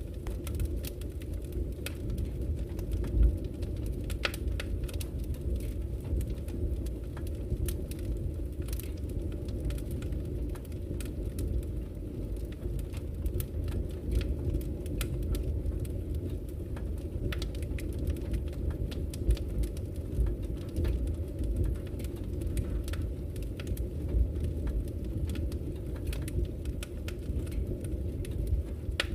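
Wood fire burning in a fireplace: a steady low rumble of flames with irregular sharp crackles and the occasional louder pop.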